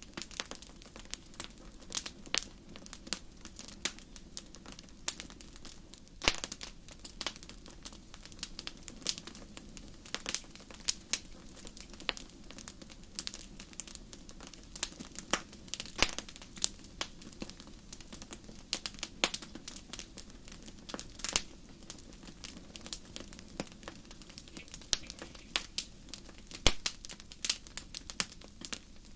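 Fireplace fire crackling, with irregular sharp pops and snaps, several a second, over a steady low hiss.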